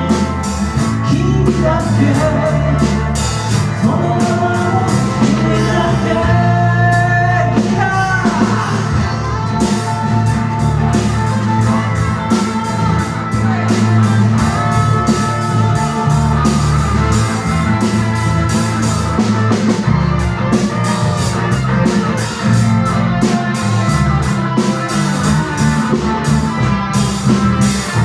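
Live rock band playing an instrumental passage: a drum kit keeps a steady beat under bass and a sustained lead melody line, with notes that slide in pitch about seven to eight seconds in.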